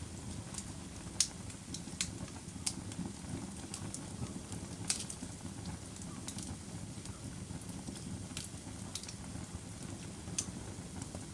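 Wood fire burning in a fireplace: a steady low rumble of flames with sharp, irregular crackles and pops, the loudest about a second in and near five seconds in.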